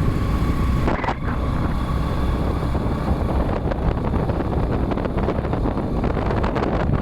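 Wind buffeting the microphone over the steady running of a boda boda motorcycle taxi on the move.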